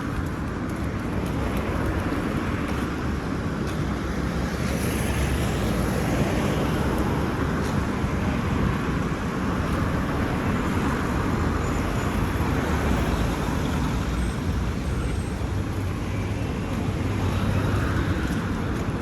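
Steady street traffic noise from passing cars, a continuous rumble without a clear break.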